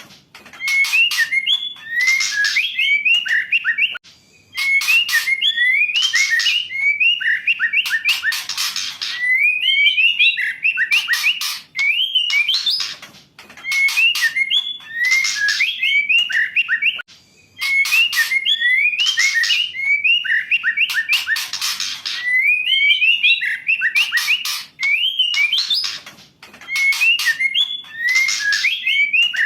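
Female white-rumped shama singing: phrases of quick whistled notes mixed with harsh rattling chatters, repeating about every four seconds with short pauses between.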